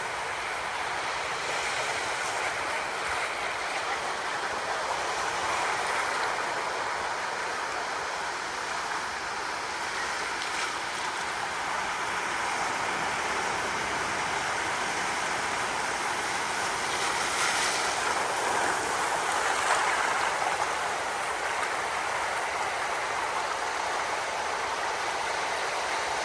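Ocean surf washing steadily: a continuous hiss of breaking and receding water that swells gently, a little louder about two-thirds of the way through.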